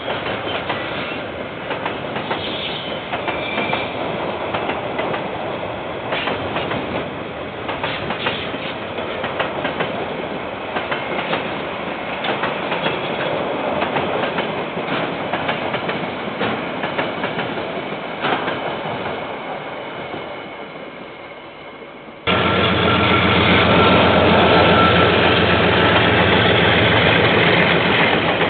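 KiwiRail train wagons rolling past with a steady rumble and many sharp wheel clicks over the rail joints, fading away. About three-quarters of the way through the sound cuts abruptly to a louder, steady diesel locomotive engine running close by.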